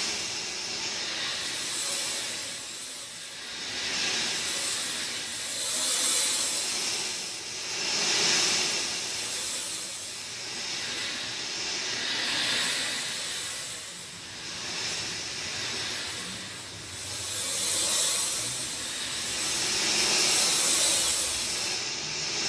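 Steady rain falling, a dense hiss that swells and eases every few seconds.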